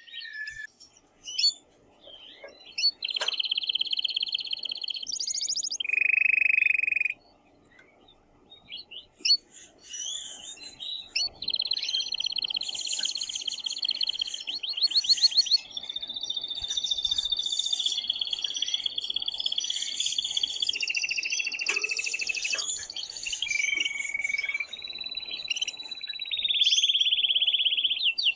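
Male canary singing loudly in excited, vigorous song: fast trills and rolls with rapid repeated notes. Short phrases come early on, then a pause of a few seconds, then nearly unbroken song from about a third of the way in.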